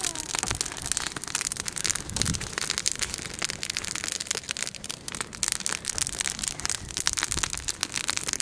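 Wood bonfire burning, crackling with a dense run of sharp snaps.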